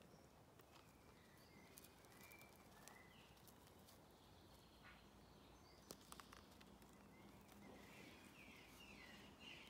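Near silence: faint bird chirps in the background, busier near the end, with a few soft clicks about six seconds in.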